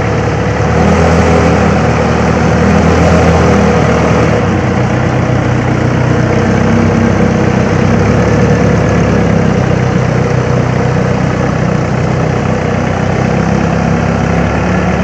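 Vehicle engine running steadily at a low, idle-like speed, a little louder for the first few seconds.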